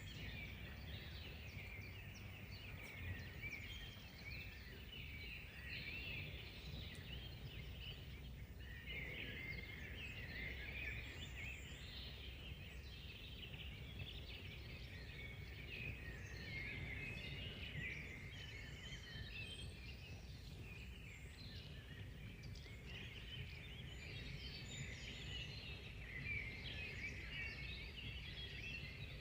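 A chorus of many small birds singing at once, a continuous tangle of chirps and trills, over a steady low background rumble.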